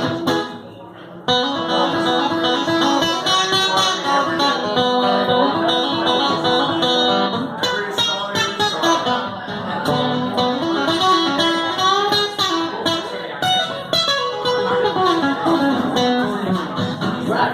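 Live guitar playing an instrumental passage of a country song, with melody lines moving over chords. There is a short lull about a second in, and then the playing carries on.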